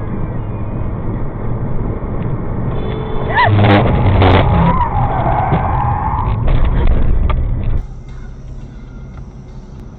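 Car driving noise picked up by a dashcam, with two sharp knocks about three and a half and four and a half seconds in, followed by a wavering tone. Near the end it cuts abruptly to a quieter passage.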